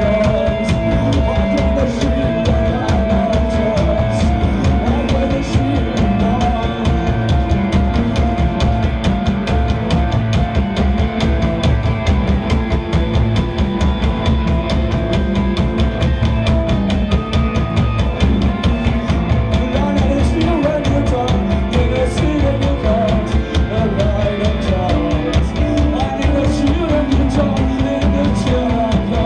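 Live rock band playing loud and steady: a drum kit keeping a fast, even beat under bass and electric guitars, with a held tone ringing over the top.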